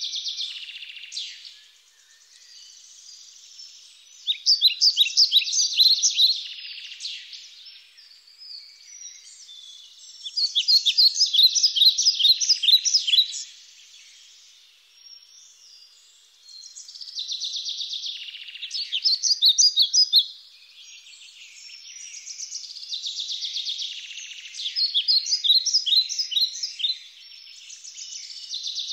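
Songbirds singing in bursts of quick, repeated chirps and trills a few seconds long, with short pauses between the bursts.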